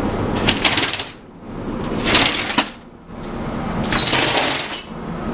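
Three short bursts of rattling, sliding noise, each under a second, from storage compartment hardware in a rescue truck's walk-in body.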